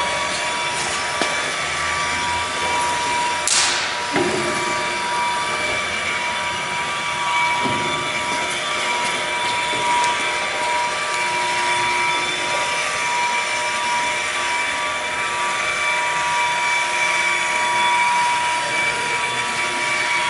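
Steady machine noise with a constant high whine, with a brief falling squeal about three and a half seconds in.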